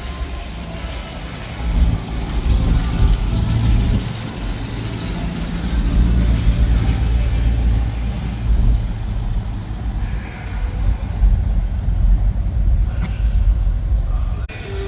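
A vehicle engine running with a deep, uneven rumble that swells and eases.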